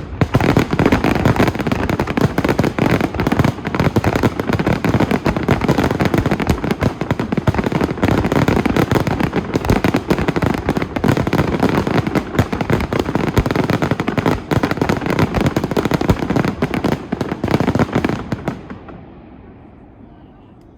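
Fireworks display: a dense, continuous barrage of bangs and crackling that dies away about eighteen seconds in.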